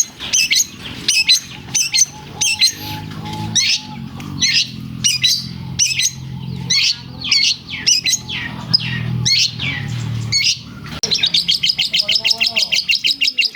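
Long-tailed shrike (cendet) singing in a lovebird-mimicking style: a string of sharp, high, falling chirps, then near the end a rapid trill of about ten notes a second. A low hum runs underneath through the middle.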